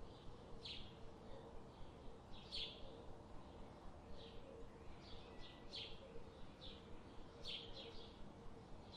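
Wild birds chirping: a dozen or so short, high notes scattered irregularly, some in quick pairs, over a faint steady background rumble and low hum.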